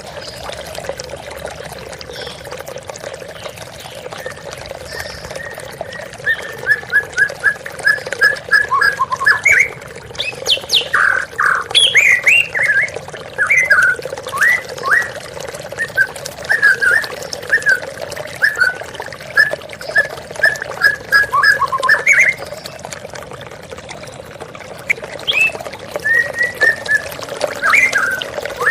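White-rumped shama (murai batu) singing in runs of quick repeated chirping notes, over the steady rush of flowing water. The first few seconds hold only the water; the song comes in about six seconds in, breaks off for a few seconds past the middle, and resumes near the end.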